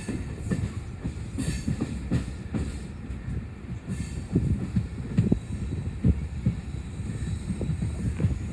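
Passenger train running along the track: a steady low rumble with frequent irregular knocks from the wheels on the rails.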